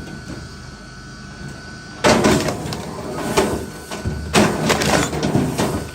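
Scraping and knocking of wood being worked, starting about two seconds in and running for nearly four seconds, with several sharper knocks.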